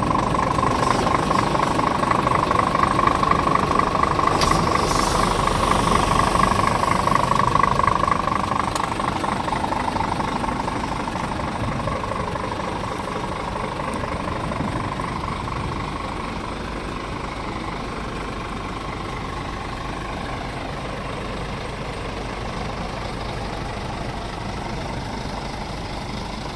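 Scania R410 truck's inline-six diesel running, louder with a steady whine for about the first eight seconds, then easing down to a steady, quieter idle.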